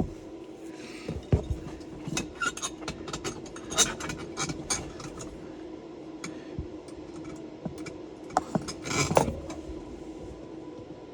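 Small metal parts clinking, tapping and scraping as bolts and a mounting plate are fitted by hand behind a car dashboard, with a denser run of clicks a couple of seconds in and a longer scrape near the end. A steady low hum runs underneath.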